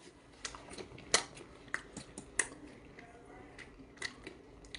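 Wet clicks and smacks of a mouth chewing raw octopus and pulling on a slimy tentacle: about a dozen short, irregular clicks, the loudest about a second in and again near two and a half seconds.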